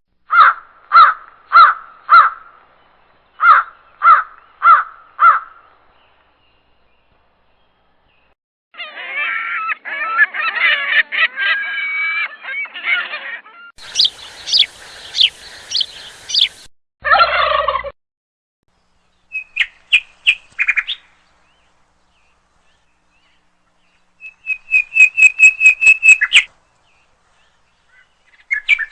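Calls of several different birds in separate short bursts with silent gaps between them: first two series of four or five evenly spaced calls, then a stretch of dense chattering, a run of high whistled notes, and near the end a rapid series of sharp notes.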